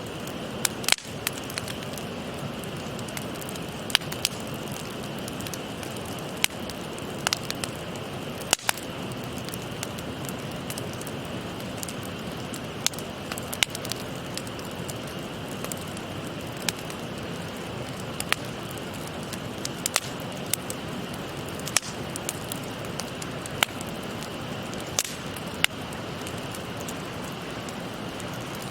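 Wood fire crackling, with sharp irregular pops and snaps, over the steady rush of a shallow stream.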